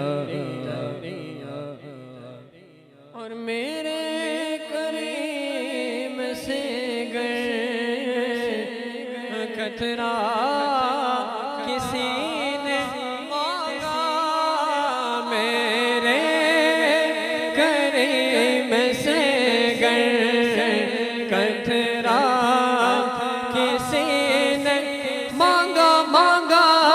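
Unaccompanied voices chanting a naat: a wavering, ornamented vocal line over a steady low vocal drone. The sound dips briefly about two to three seconds in.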